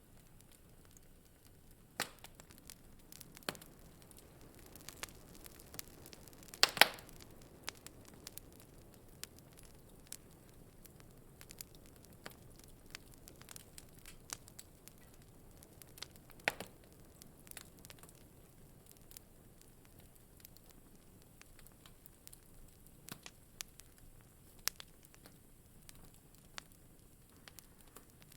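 Wood fire crackling in a fireplace: scattered sharp pops and snaps over a soft low hiss, with a loud cluster of pops about a quarter of the way in and another strong pop a little past the middle.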